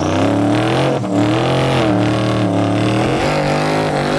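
Single-turbo 5.0 Mustang V8 accelerating hard under full throttle, its pitch climbing, dropping at a gear change about a second in, then holding high, with another brief dip near the end.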